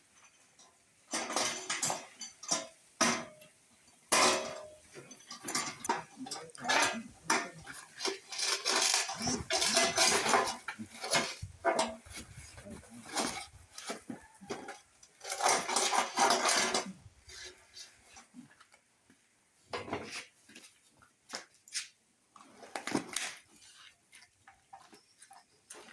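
Irregular clattering and clinking of hard metal objects knocking together, in busy spells through the first two-thirds and sparser near the end.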